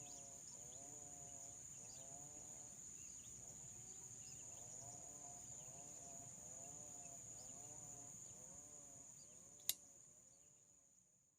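Faint repeated animal calls, each a short arched call, coming about every 0.8 seconds over a steady high-pitched insect drone. A single sharp click sounds near the end.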